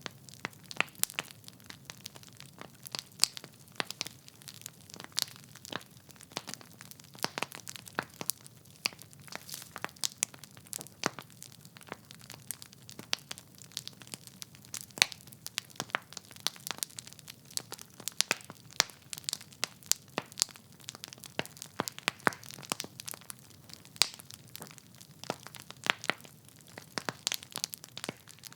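Wood fire in a fireplace crackling, with many irregular sharp pops and snaps from the burning logs over a faint low rumble of the flames.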